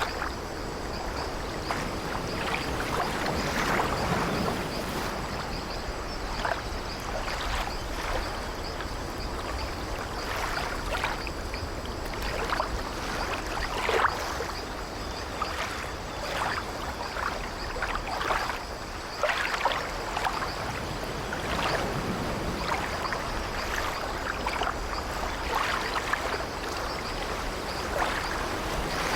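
Sea waves washing against an old wooden ship in a steady wash, with short, irregular creaks and knocks of the ship's timbers scattered throughout. The sharpest one comes about halfway through.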